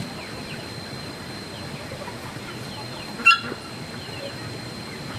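Steady outdoor background noise with faint bird chirps, and one short, loud call from a fowl a little after three seconds in.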